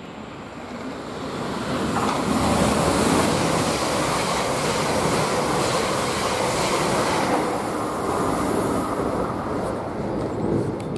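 An electric multiple unit passing through the station at speed on the adjacent track, its motors and wheels on the rails. The noise builds over the first two seconds, stays loud for about seven seconds while the train goes by, then fades.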